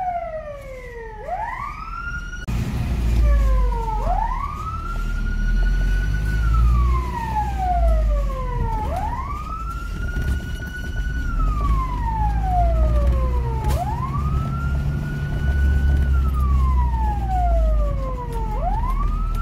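Fire engine siren wailing. Each cycle rises quickly, holds its high pitch for about two seconds, then falls slowly, repeating roughly every five seconds over a steady low engine and road rumble.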